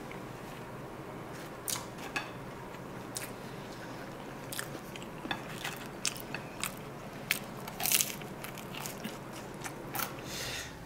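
A person eating with their mouth close to the microphone: chewing with a dozen or so short, crisp crunches, spaced irregularly and starting about a second and a half in, from rice rolls with crisp fried toppings and Chinese donuts.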